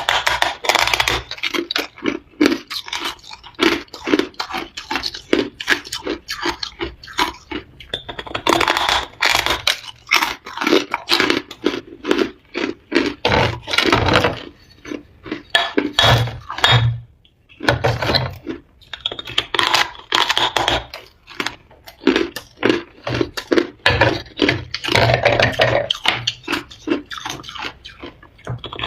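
Someone biting and chewing hard ice, a close, rapid run of crunches with a short pause about two-thirds of the way through.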